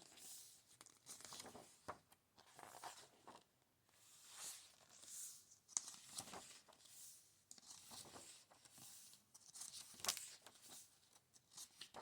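Faint rustling and swishing of paper as the pages of a book are handled and turned, in a string of soft swishes.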